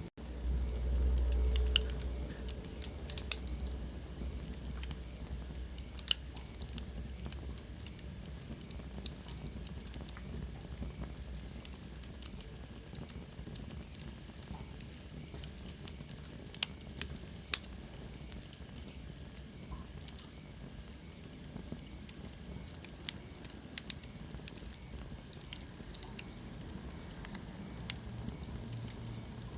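Wood fire crackling in a fireplace: a steady soft hiss with sharp pops and snaps scattered irregularly. Near the start there is a brief low rumble lasting about two seconds.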